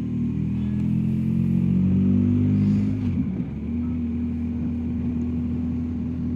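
BMW R1250GS Adventure's boxer-twin engine running under way, its pitch climbing gently for the first couple of seconds, dropping about three seconds in, then holding steady.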